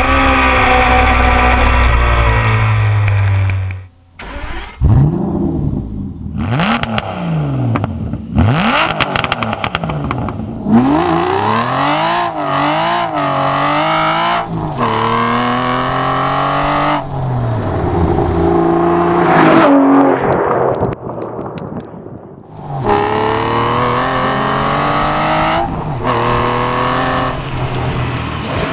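High-performance piston engines revving hard, their pitch climbing and falling again and again with each rev and gear change. The sound breaks off abruptly about four seconds in and changes character again near the end, as separate clips are cut together.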